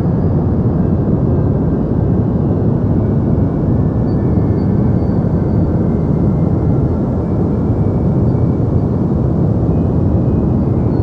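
Deep white noise for sleep: a steady, unchanging rush weighted toward the low end, with little treble.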